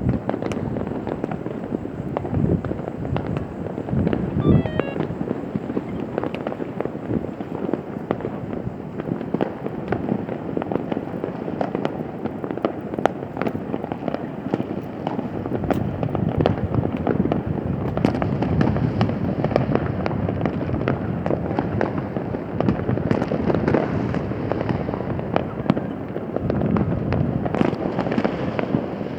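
Fireworks going off in a dense, unbroken barrage: many overlapping bangs and crackles, with no let-up.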